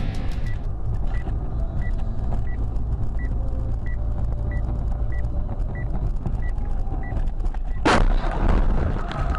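Car road and engine rumble, with a short high beep repeating about every two-thirds of a second, then a single loud sudden bang near the end, typical of a collision.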